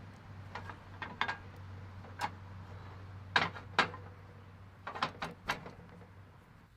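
Sharp metal clanks and taps, some in quick pairs, as a cast-iron waffle iron is handled, opened and checked, over a steady low hum that stops near the end.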